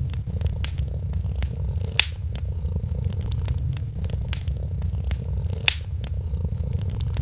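A cat purring steadily, a low pulsing rumble, under the crackle of a wood fire, with many small clicks and two louder pops, one about two seconds in and another late on.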